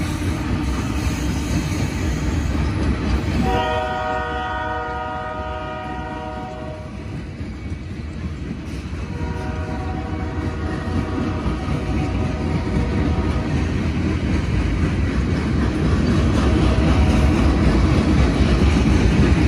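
Freight train of flatcars rolling past, its wheels rumbling and clattering on the rails, growing louder near the end. A train horn sounds a long blast about three and a half seconds in, then again more faintly from about nine seconds.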